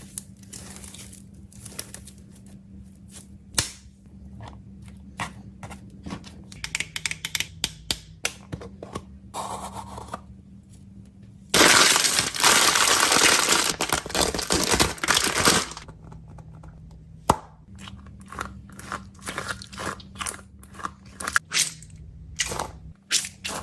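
Plastic packaging and fidget toys being handled and packed: scattered taps, clicks and crinkles, with a loud continuous crinkling rustle for about four seconds in the middle.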